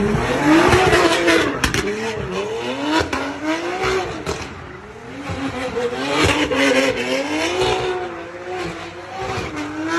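BMW M3 with a Strada Performance exhaust revving hard while spinning donuts, the engine pitch rising and falling over and over. Tyre squeal swells loudest about a second in and again around six to seven seconds.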